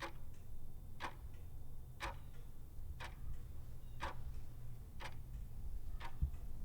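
Evenly spaced sharp ticks, about one a second, over a steady low hum.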